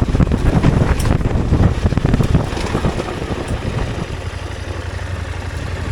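Motorcycle engine running while riding, with wind buffeting the microphone; the rumble eases about two and a half seconds in, leaving a steadier low engine hum.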